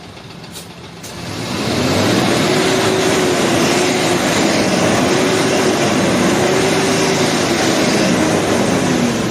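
Truck's diesel engine, running on biodiesel made from used cooking oil, growing loud about a second and a half in and holding under load, its pitch rising and falling in slow swells.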